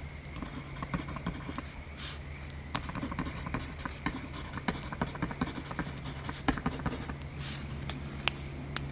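Wood fire crackling, with irregular sharp pops and snaps over a steady low rumble and a few brief hissing swishes.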